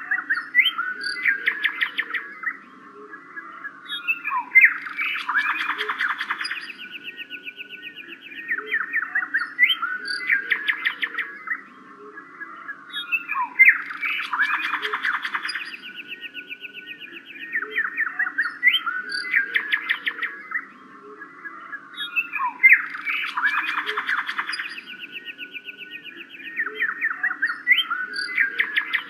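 Birdsong: bursts of rapid chirps and trills, the same sequence repeating about every nine seconds as if looped, over a steady low hum.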